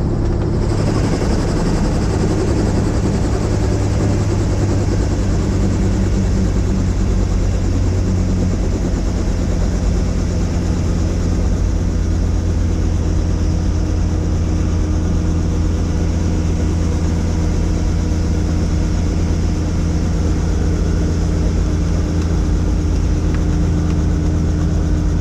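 Helicopter running steadily in flight: an even, unchanging drone of rotor and engine.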